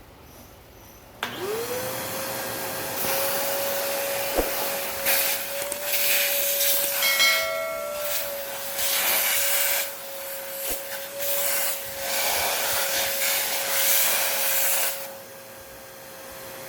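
Fujihama wet and dry vacuum cleaner switched on about a second in, its motor spinning up to a steady whine. The rush of suction rises and falls as it is tried on different things, with a brief whistle midway, and it gets quieter near the end.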